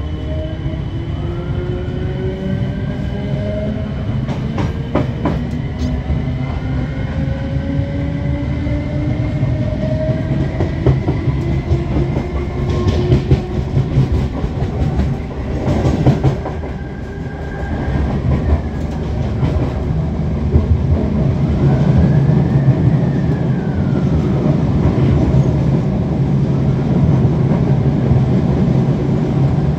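A train running on the rails: a steady low rumble with whining tones that rise in pitch over the first dozen seconds, a few sharp clicks and clacks from the wheels, and growing louder in the last third.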